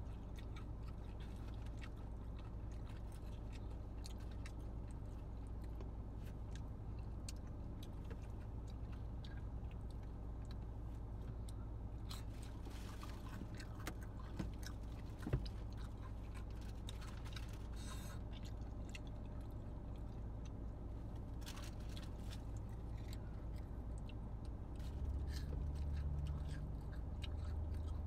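A person chewing crunchy fried pickle chips, with many small crunching clicks over a steady low hum inside the car. A single sharp click about halfway through is the loudest sound.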